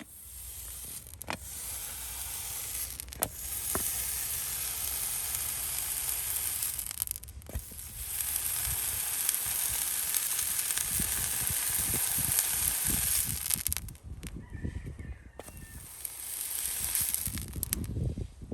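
Hot horseshoe seared against a hoof: a long, crackling sizzle of burning hoof horn, broken off briefly a few times as the shoe is lifted and set back on, then fading out near the end.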